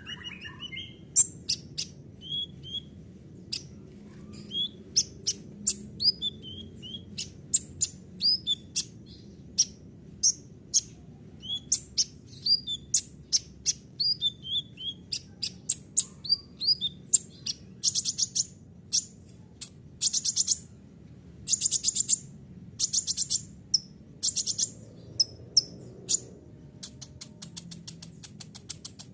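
Kolibri ninja sunbird singing a varied, lively song of sharp high chirps and short whistled notes, broken in the second half by rapid, high trilled rolls.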